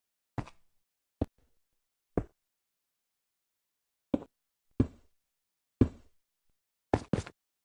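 A series of short, sharp knocks at irregular intervals: about eight in all, with a quick double knock near the end.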